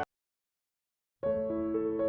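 Background piano music cuts off abruptly, leaving dead silence for just over a second, then gentle piano music starts again with held notes.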